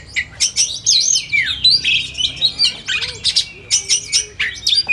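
Oriental magpie-robin (kacer) singing: a fast, varied stream of sweeping whistles, chirps and short trills with hardly a pause.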